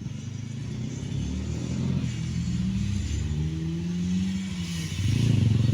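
Traction drive of a 71-931M Vityaz-M tram, its ATD-10U1 traction motors under IGBT control, whining over a steady running rumble. The whine rises in pitch as the tram gathers speed, then levels off and eases down about four seconds in.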